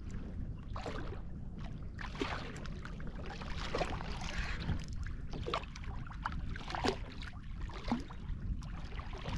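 Water splashing and sloshing against a fishing kayak's hull in irregular bursts, over a steady low rumble.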